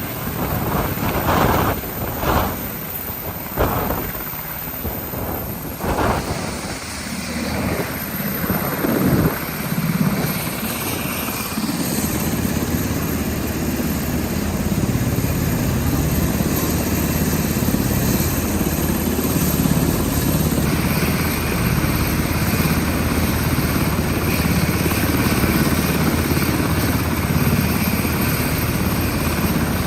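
Helicopter running close by. For about the first twelve seconds the noise comes in uneven surges, then it settles into a steady low drone.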